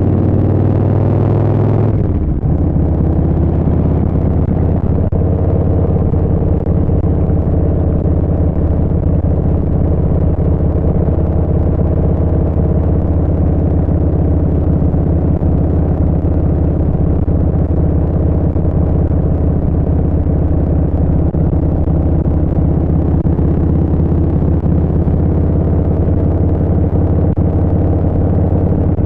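Harley-Davidson Street Bob 114's Milwaukee-Eight V-twin running through a Vance & Hines Short Shots exhaust while riding. The engine note falls about two seconds in, then holds steady at cruising speed.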